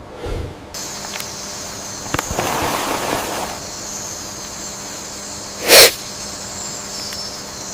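Rainforest ambience with a steady high hiss, a short noisy rustle two to three seconds in, and one loud, sharp crack about six seconds in.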